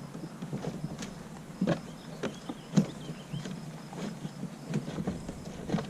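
Scattered knocks and clicks of a plastic fishing kayak's drop-in seat and its straps being handled and fitted, the sharpest knock a little under three seconds in.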